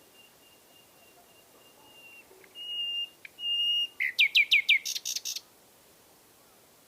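Nightingale singing: a faint long whistled note, then two louder steady whistles. A quick run of about five downward-sweeping notes follows, then a short burst of harsh rattling notes about four to five and a half seconds in.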